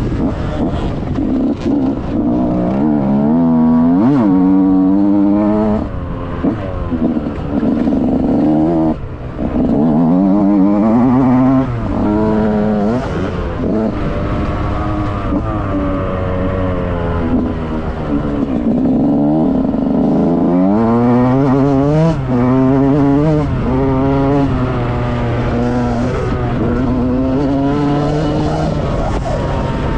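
Small two-stroke single-cylinder engine of a 2006 KTM SX 65 motocross bike, revving up and dropping back over and over as the rider throttles and shifts around the track, with brief throttle-offs.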